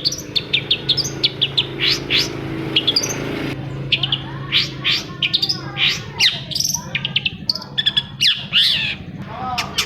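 Long-tailed shrike (cendet) singing a fast, varied song of sharp chirps and sweeping notes, over a low steady hum.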